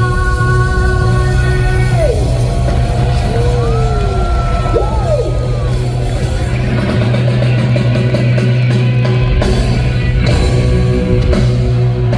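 Live rock band playing the closing stretch of a song: loud sustained guitar and bass with bending, sliding notes and a singer's yells, heard from within the crowd in a large hall.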